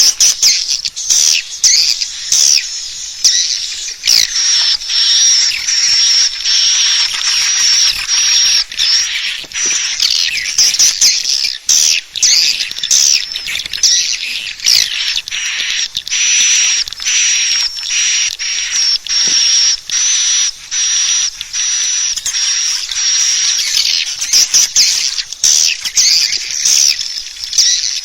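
A dense chorus of swiftlets twittering, a continuous high, buzzing chatter laced with many sharp clicks: a swiftlet-house lure call recording.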